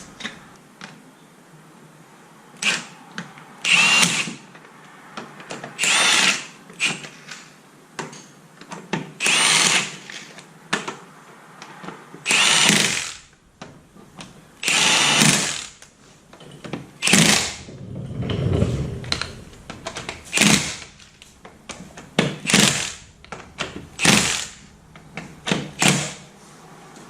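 Cordless grease gun motor running in short bursts, about a dozen times, pumping grease into the truck's suspension and driveline fittings.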